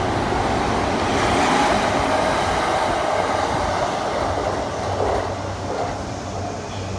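E233-series electric commuter train departing past a station platform. Its wheel and motor noise peaks about a second and a half in and then fades as the cars clear. A 285-series electric train runs on the adjacent tracks as it fades.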